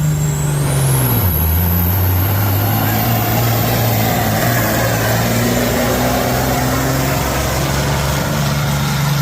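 A diesel semi truck's engine running hard under load as it pulls the sled. Its pitch drops about a second in and climbs back near the end, with a high whistle that rises over the first second and then holds.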